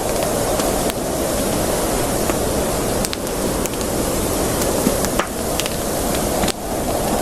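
Campfire burning, a steady rushing hiss of flames under scattered sharp crackles and pops of burning wood.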